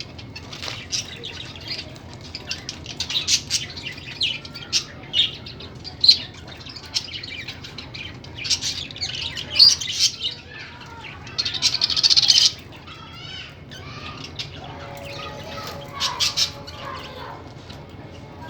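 Parrot squawking and chirping in many short, sharp, high-pitched calls, with one longer, louder, harsh squawk about twelve seconds in.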